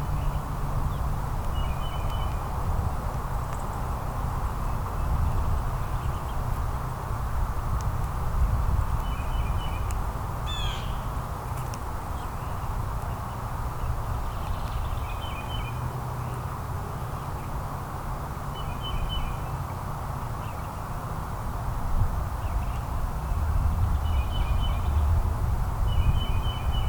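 A bird calling from the backyard in short, high double chirps, repeated every few seconds, with one brief sweeping call about ten seconds in. A steady low outdoor rumble runs underneath.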